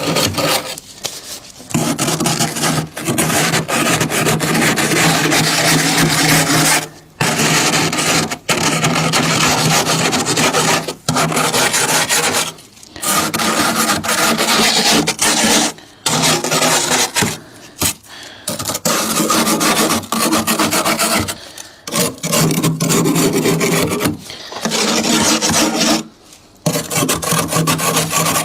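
Freezer frost being scraped: long rasping scrapes a few seconds each, broken by short pauses.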